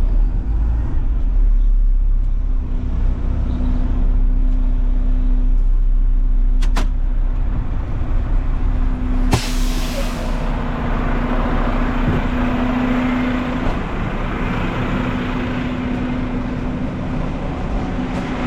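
Front-load garbage truck's diesel engine running steadily with a constant low hum, and a sharp burst of air hiss about nine seconds in, followed by a broader rushing noise.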